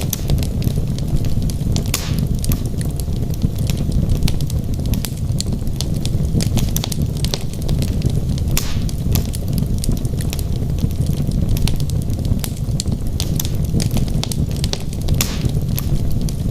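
Wood logs burning in a fireplace: a steady low roar from the flames, with frequent small crackles and three louder pops spread through.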